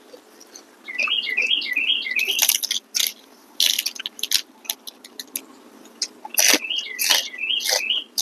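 Close-up eating sounds: chewing, crunching and lip-smacking of food eaten by hand. A bird sings in the background, a quick run of about six rising chirps, twice.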